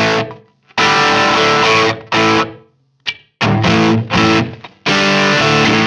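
Electric guitar played through a Mesa Boogie Mark IIC+ amp model (Neural DSP plugin), with a tight, distorted tone. Several chords are struck and held, then cut off short, in a stop-start riff.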